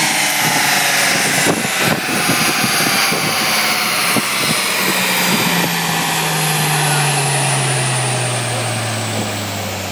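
Nissan Skyline R33 GT-R's twin-turbo RB26DETT straight-six on a chassis dyno, winding down at the end of a full-power run. The engine and rollers fall steadily in pitch, with irregular popping in the first few seconds.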